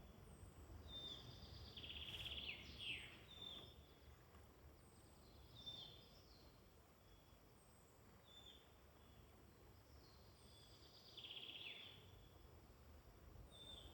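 Faint woodland birdsong: short high chirps repeating every second or two, with two louder rattling trills, about two seconds in and again about eleven seconds in, over a low background rumble.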